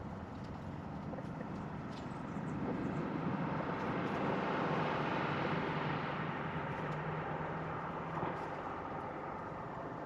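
A vehicle passing by: a broad rushing noise that swells to its loudest about halfway through and then fades away.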